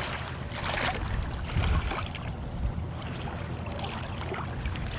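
Wind buffeting the microphone over choppy river water lapping, with a brief louder rush of noise about half a second in.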